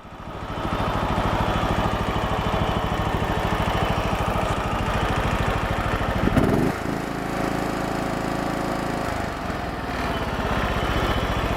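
John Deere LX172 lawn tractor's small engine running steadily with an even pulse. About six seconds in the sound shifts briefly, with a short rising glide, then holds a different steady tone for a couple of seconds before settling back.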